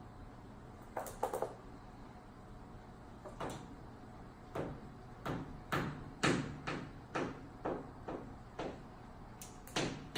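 About a dozen short, irregularly spaced taps and clicks from an African grey parrot playing at a mirror, some coming in quick pairs.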